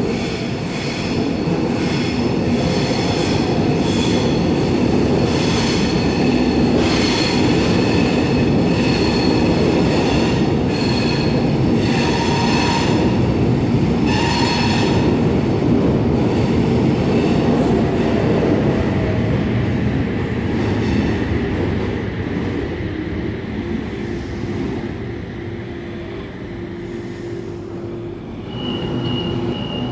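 Double-deck electric suburban train pulling into an underground platform, rumbling with squealing wheels and whining motors as it brakes. It goes quieter as it comes to a stop. A steady high beep sounds near the end.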